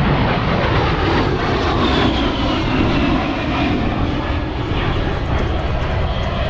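A-10 Thunderbolt II's twin TF34 turbofan engines making a loud, steady jet sound as it passes. A whine in it falls in pitch over a few seconds.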